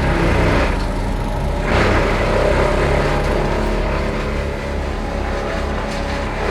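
Heavy truck engine running steadily at a loud level, with a constant low hum.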